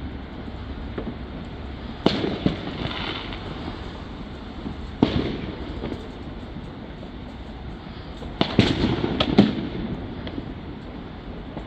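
Fireworks exploding over a steady background noise: single bangs about two and five seconds in, then a quick cluster of sharp cracks near the end.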